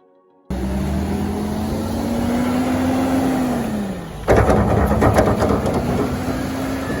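An engine running with a pitch that slowly rises and falls, starting abruptly about half a second in. About four seconds in comes a loud, rough, noisy stretch of about a second and a half, the loudest part.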